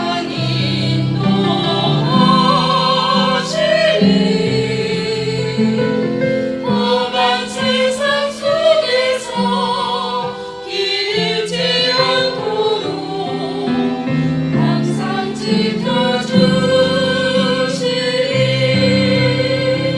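A small mixed vocal ensemble singing a gospel hymn in harmony over instrumental accompaniment.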